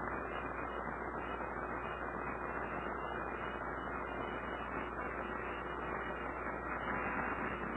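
Steady hiss with a low mains hum underneath, unchanging throughout: the recording's background noise.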